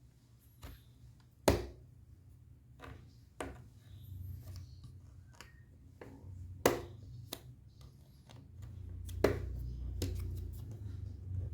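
Hands working on a laptop during a repair: irregular sharp clicks and taps of parts and small tools being handled, three of them loud, over a low handling rumble.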